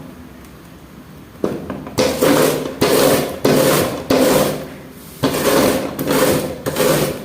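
Fresh ears of corn being rubbed up and down a hand grater, a rhythmic scraping at about two strokes a second that starts about a second and a half in.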